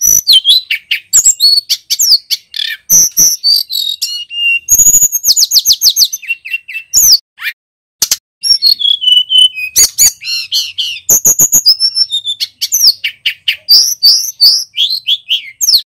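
Male tledekan gunung singing a long, loud, varied song of quick chirps, sweeping whistles and rattling trills, with brief pauses about halfway through.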